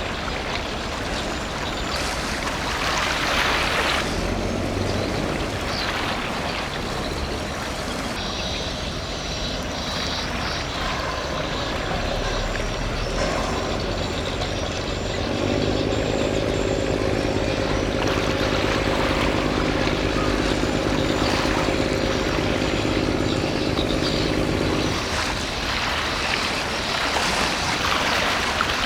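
Steady low rumble of a passing container ship's engines with wind and water noise, and a pitched drone joining in for about ten seconds in the middle.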